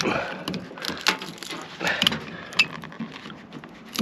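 Irregular metallic knocks and clinks as the winding of a microwave oven transformer is cut into to see whether it is copper, with a few sharper strikes among them.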